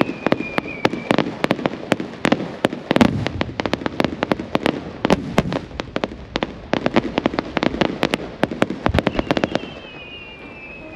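Aerial fireworks bursting: a rapid, dense string of sharp cracks and pops for most of the time, thinning out near the end, where a whistling tone glides down in pitch.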